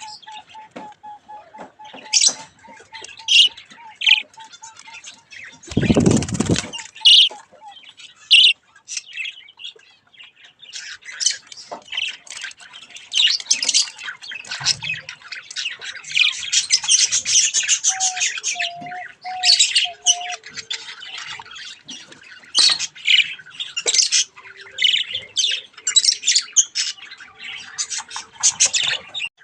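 Budgies chattering and squawking: many short, high chirps and screeches, busiest in the middle. One loud noisy burst about six seconds in.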